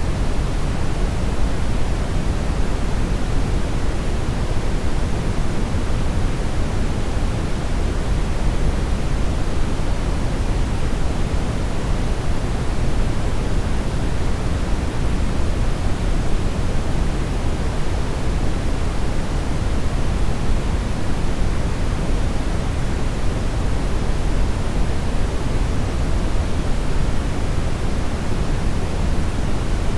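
Steady synthetic brown noise: an even, deep rushing hiss, strongest in the low end and thinning toward the highs, unchanging throughout.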